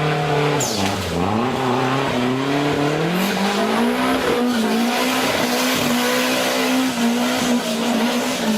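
Off-road 4x4 engine revving hard under load. Its pitch dips about a second in, climbs and holds high, then falls away near the end.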